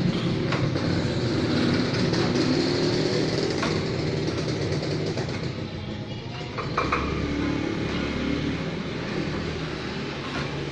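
A motor engine running steadily with a low rumble that slowly fades away; a light knock about seven seconds in.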